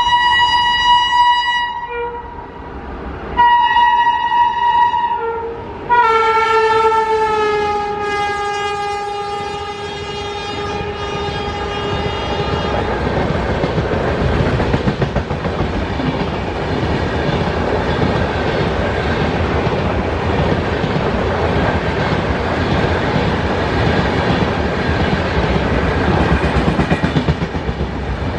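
An Indian Railways train sounds its horn three times: two short blasts, then a longer one whose pitch drops as the train passes. The train then rushes by with a steady rumble and rhythmic clatter of wheels on the rail joints.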